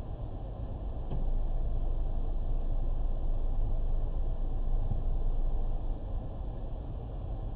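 Low, steady rumble of a car driving, picked up by a dashcam's microphone. It grows louder about a second in and eases off near the end.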